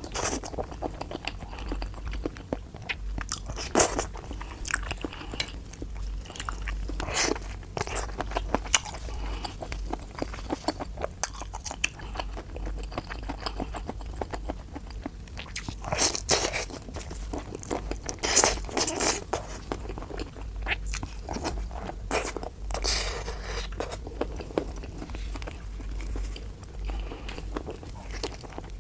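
Close-miked biting and chewing of food, wet crunches at an irregular pace, with a few louder bites along the way.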